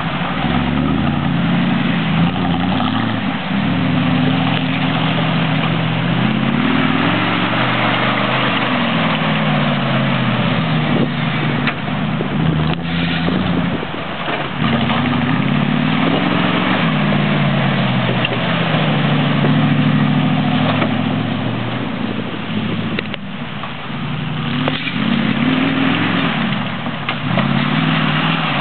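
Truck engine revving up and dropping back about six times, its pitch rising and falling in long swells over a steady rushing noise.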